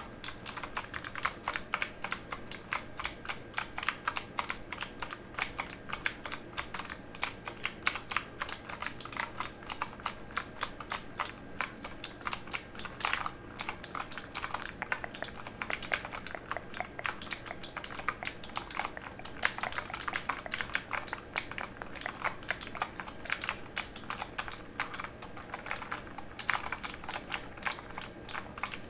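Continuous fast typing on a mechanical computer keyboard: dense, irregular key clicks, several a second, with occasional brief pauses.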